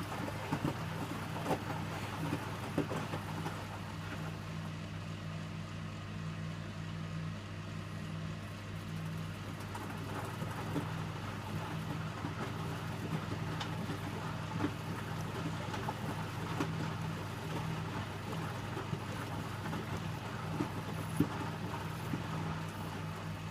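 Electrolux W455H commercial washing machine running mid-cycle: a steady low hum with scattered light knocks and clicks.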